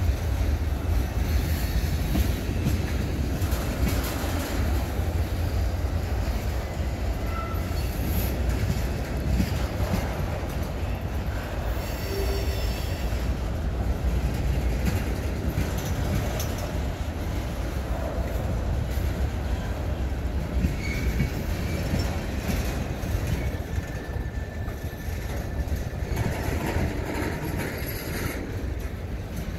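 A mixed freight train rolling past with a steady, heavy rumble. Brief, faint squeals come from the wheels now and then.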